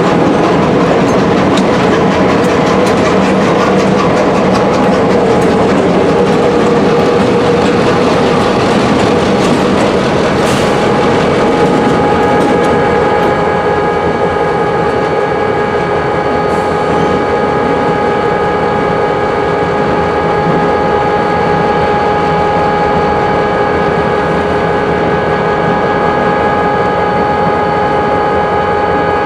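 Freight train cars rolling through a rail yard with a steady clickety-clack of wheels over rail joints. About halfway in, a steady whine of several tones joins the rolling noise and holds.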